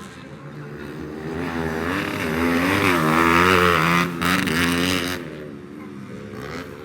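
Trail-class dirt bike engines revving as the bikes race past, the engine note rising and falling with the throttle. The sound swells to its loudest about three to four seconds in, then fades away after about five seconds.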